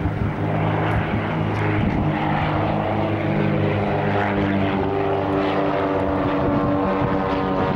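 Pitts S-2B aerobatic biplanes' piston engines and propellers droning in a close formation pass, the engine note rising slowly in pitch over the last few seconds.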